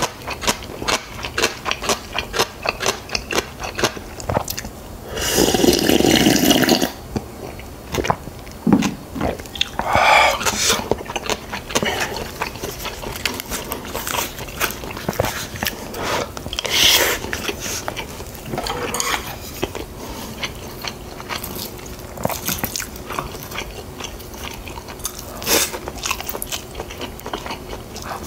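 Close-miked chewing and biting of yeolmu bibimbap and side dishes: wet mouth clicks and crunching, with a louder noisy stretch about five seconds in lasting a second and a half.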